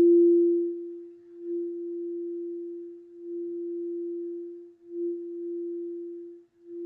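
Singing bowl ringing with one steady, pure tone that swells and fades in slow waves.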